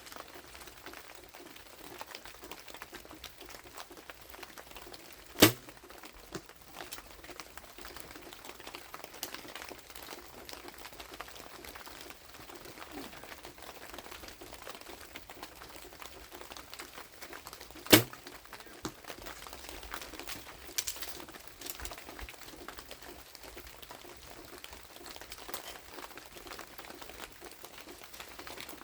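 Two sharp snaps of a compound bow being shot, about twelve seconds apart, over a steady light patter of rain.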